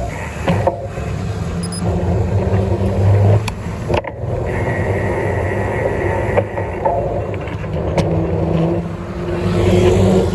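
Road traffic noise: vehicle engines running with a steady rumble, with a few sharp clicks and a slowly rising engine tone near the end.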